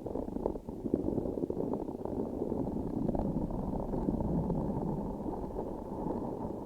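Close-miked sticky, squishy handling of a transparent sticky object, a dense run of small crackles and clicks that sounds muffled.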